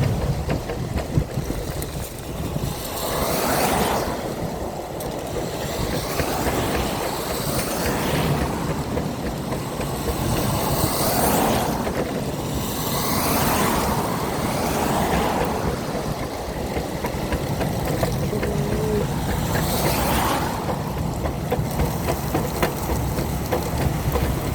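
Wet-road noise in the rain: a steady low rumble with hissing swells every few seconds, as tyres roll through water on the pavement.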